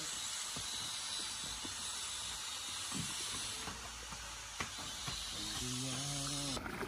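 Curry simmering in a pan over a clay stove, a steady sizzling hiss, with a few light clicks and a short hum from a person near the end.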